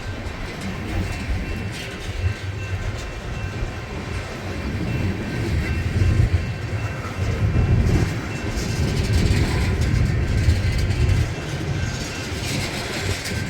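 Union Pacific freight train's cars rolling past: a steady low rumble with the wheels clicking over the rails, louder in the middle.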